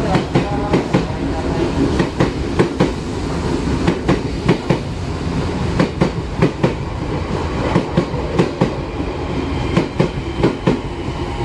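Odakyu 8000 series electric train passing close by, its wheels clacking over rail joints in a steady run of sharp clicks over a constant running rumble.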